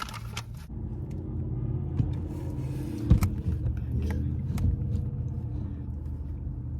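A car's engine running with a steady low rumble, heard from inside the cabin. There is a sharp knock about three seconds in.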